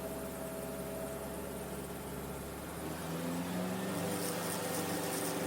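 Enstrom F28F helicopter's piston engine and rotor running with a steady hum during an autorotation glide. About three seconds in, the tone shifts and grows a little louder as power comes back in for the recovery.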